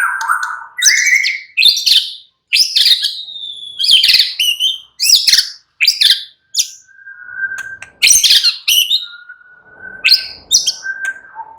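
White-rumped shama (murai batu) singing: loud, varied phrases of rich whistles, fast sweeping notes and rapid chatter, broken by short pauses, with a few long held whistles in the second half.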